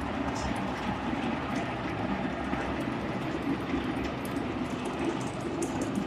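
Animal feed mixer running under load, a steady mechanical noise with scattered, irregular clicks and rattles as the feed is mixed.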